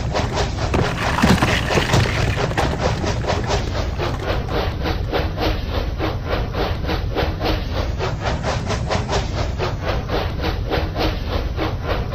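Battery-powered Labo brick toy steam train running, with a steady chuffing rhythm of about four strokes a second.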